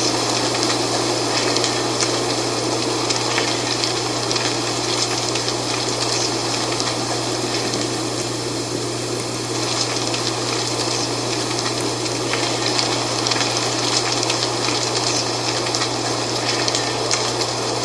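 Wind blowing through dry autumn leaves, a steady rushing with fine crackling rustle, easing slightly around the middle. A steady low hum runs underneath.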